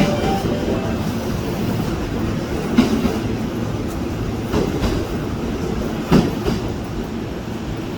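E233 series 1000 electric train pulling into the station, a steady low rumble broken by three sharp clacks of the wheels over the rails about three, four and a half, and six seconds in.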